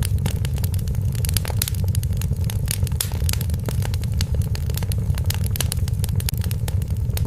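Wood fire crackling: many sharp pops and snaps, densely scattered, over a steady low rumble.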